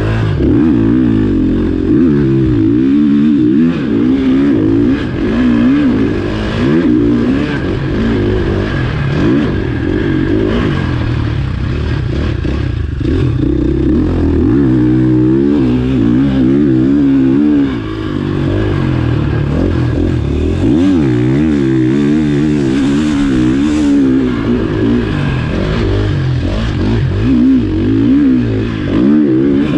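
Motocross bike engine being ridden hard around a track, its revs climbing and dropping over and over without a break.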